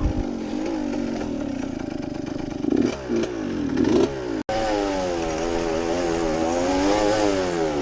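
Suzuki RM85 two-stroke dirt bike engine running under throttle through a muffler adapted from an Apollo 125, with a few quick revs about three seconds in. The sound cuts out for an instant just past halfway, then the engine carries on in a steady drone that rises and falls slightly.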